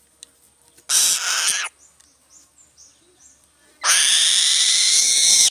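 A bird of prey giving two harsh, hissing screeches: a short one about a second in and a longer one starting near the four-second mark.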